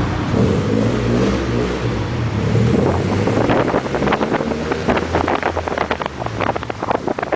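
Turbocharged Mitsubishi Eclipse engine revving. For the first few seconds it holds a steady note, then from about three seconds in the sound turns rough, broken up by rapid irregular crackles.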